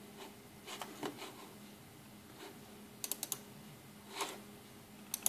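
Clicking at a computer while navigating photos: a quick run of about four sharp clicks about three seconds in and a few more near the end, over a faint steady hum.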